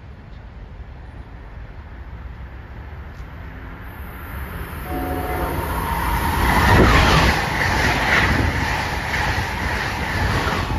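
Passenger train sounding a short horn blast about five seconds in, then rushing past at speed. The noise builds from a low rumble to a loud rush that peaks a couple of seconds after the horn.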